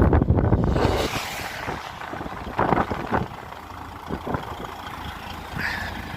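Truck engine idling, with a gust of noise in the first second and a few knocks in the middle.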